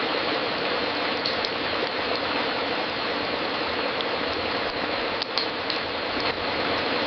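Wood fire crackling in a fireplace: a steady hiss with scattered sharp pops, several close together about five seconds in.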